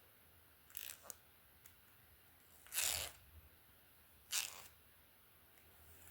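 A hairbrush drawn through hair in three separate strokes, each a short swish, the middle one loudest.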